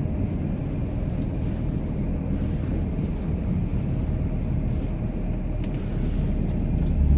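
Cummins inline-six turbodiesel of a Ram pickup running steadily while pushing a snowplow, heard from inside the cab as a low rumble that grows a little louder near the end.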